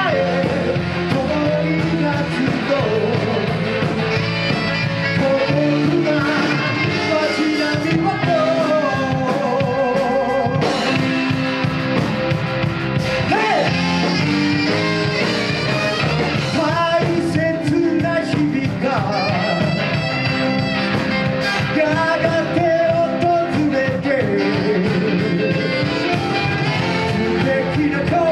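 A live band playing a rock-and-roll song, with a lead vocal singing over guitar, bass and drums.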